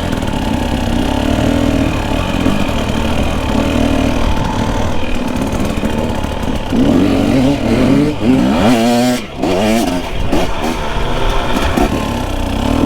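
Dirt bike engine running while being ridden, its pitch rising and falling with the throttle. From about seven seconds in it revs up and down several times in quick succession, with a brief drop-off about nine seconds in.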